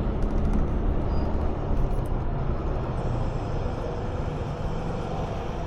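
A 125cc motor scooter running steadily on the move, a low engine drone under the rush of wind and road noise.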